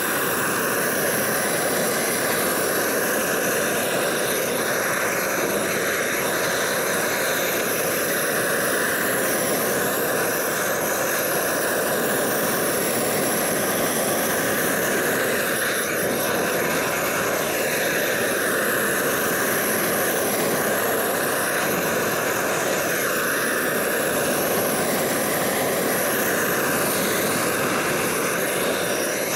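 Homemade gas roofing torch burning with a steady roar, heating bitumen roll roofing to fuse it onto the garage roof.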